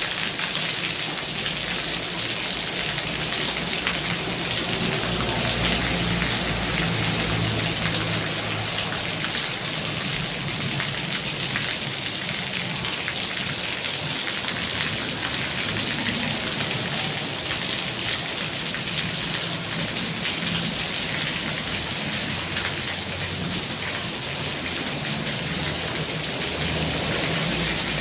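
Heavy rain falling steadily, a dense even hiss of drops, with a low rumble rising under it at times.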